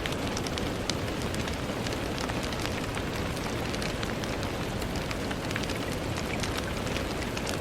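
Steady rain falling on a window, an even hiss with many small, sharp drop ticks scattered through it.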